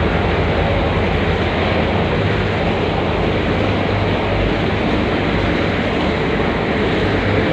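Ship's engine droning steadily with a low hum under constant rushing noise, heard from inside the vessel while it is under way.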